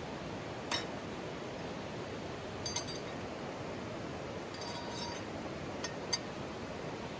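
Several light clinks of metal camp cookware or utensils, each with a short high ring: one about a second in, a few more around three and five seconds, and one near the end. Underneath is the steady rush of a mountain stream.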